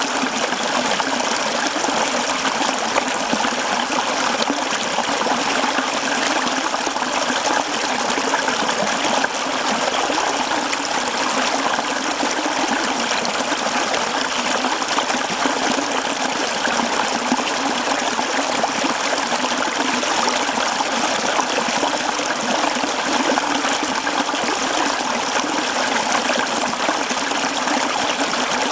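Mountain stream running over rocks: a steady, even rush and babble of water.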